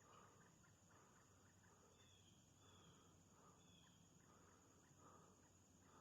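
Near silence: faint woodland ambience, with three faint short high chirps about two to four seconds in.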